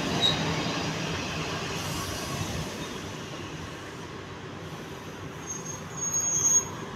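Electric commuter train running close past at speed, its rushing wheel-and-rail noise fading over the first three seconds. Near the end comes a brief high-pitched squeal.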